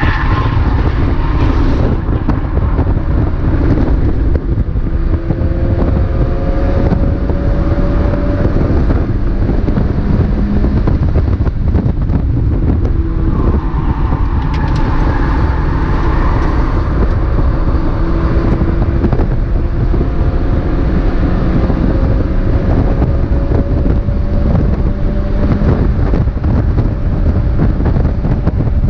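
Mazda MX-5 race car's engine heard from the onboard camera, running hard under heavy wind and road rumble. Its pitch climbs slowly over several seconds and drops back a few times as the car goes through the gears.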